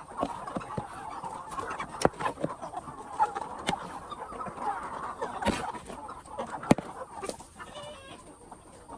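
A flock of capons clucking and chattering together, with scattered sharp knocks and clicks among the calls and one louder knock about two thirds of the way in.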